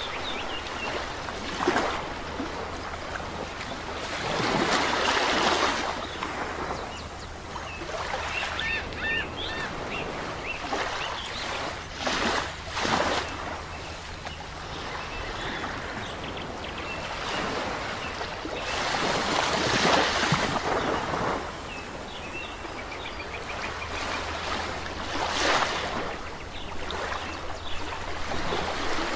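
Sea waves washing onto a shore, the surf swelling in surges every several seconds over a constant wash of water. Short bird chirps come in about a third of the way through and again near the end.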